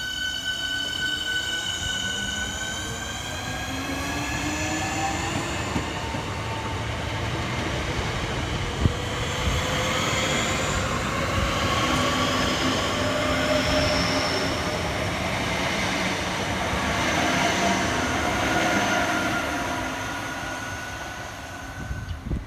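Electric multiple unit train moving through the station, its traction motors whining in several tones that rise together as it accelerates, over a steady rumble of wheels on rail.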